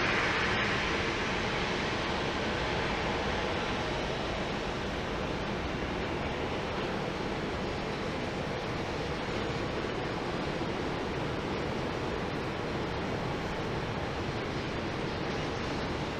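Jet airliner engine noise, a steady broad rumble that is loudest at the start and eases slightly in the first second before holding even.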